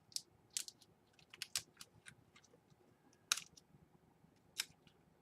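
Scattered small plastic clicks and taps, a dozen or so at uneven intervals, from a laptop's internal parts being handled while the keyboard cable is worked loose.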